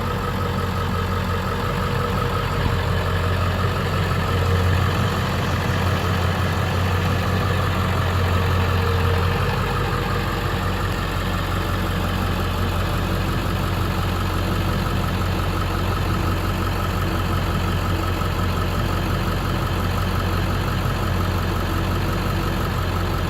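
2001 Ford F-250's 7.3 L Power Stroke V8 turbo diesel idling steadily.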